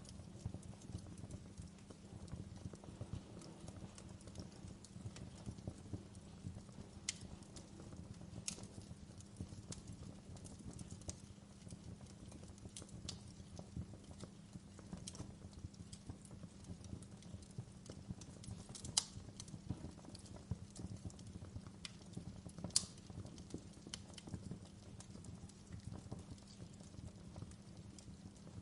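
Wood fire crackling in a fireplace: a steady low rustle with irregular sharp pops, a couple of them louder in the second half.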